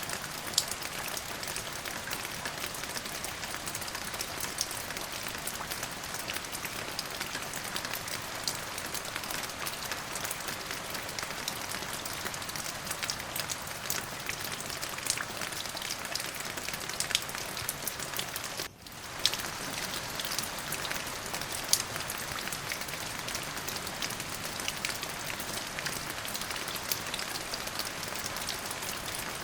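Steady rain falling, with many individual drops ticking sharply on a surface close by. The sound dips briefly a little past the middle, then carries on unchanged.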